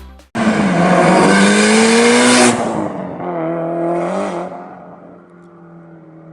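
Mitsubishi Lancer Evolution VI Tommi Mäkinen Edition's turbocharged four-cylinder engine pulling hard with its pitch slowly rising for about two seconds, then easing off. A second, shorter burst of throttle follows before it settles back to a quieter, steady, lower-pitched running.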